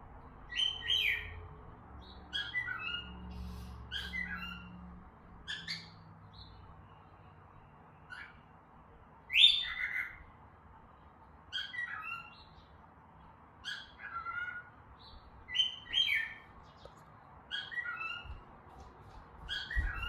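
Cockatiels calling: a series of short, clear whistled chirps, many dropping in pitch, repeated every second or two, with one louder call about halfway through.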